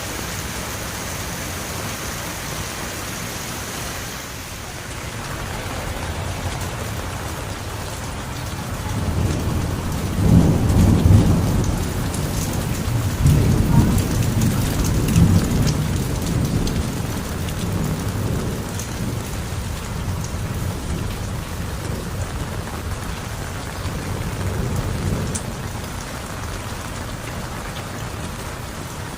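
Heavy rain falling steadily, with a long, low roll of thunder that builds about a third of the way in, is loudest for several seconds, then slowly fades away.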